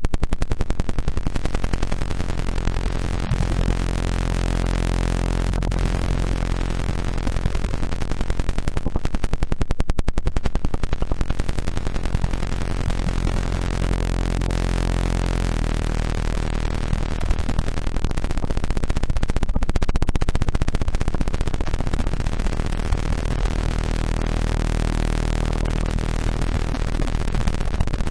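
Synthesized 'healing resonant frequency' tones: many steady pitches sounding together with a fast, even pulsing flutter. The set of pitches changes about halfway through.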